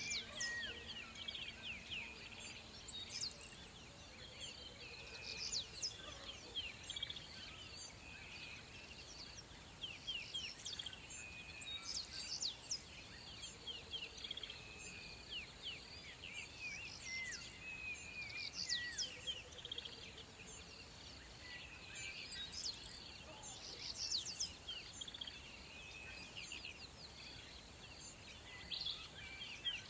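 Outdoor bush ambience with many birds chirping and calling: frequent short, high, quick downward-sweeping notes over a faint steady hiss.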